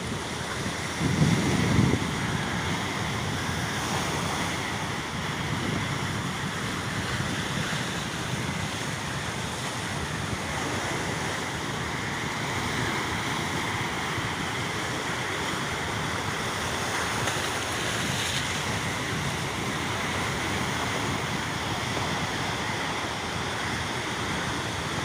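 Steady wind buffeting the microphone over the wash of the sea, with a stronger gust about a second in.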